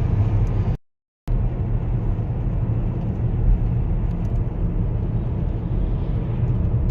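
Steady low rumble of car road and engine noise, heard from inside a car. It drops out completely for about half a second about a second in.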